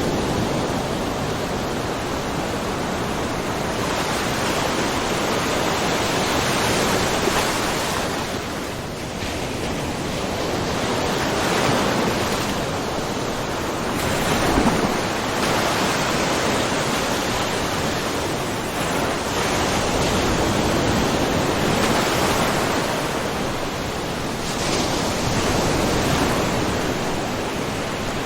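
Small ocean waves lightly splashing and washing in a rocky cove, a steady rush of water that swells and eases every few seconds.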